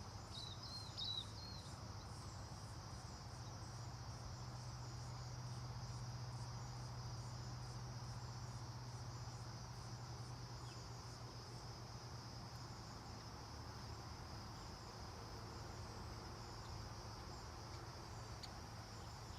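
Crickets or similar insects chirping steadily: a continuous high trill with a regular pulsing above it. A few short bird chirps come about a second in, over a low steady hum.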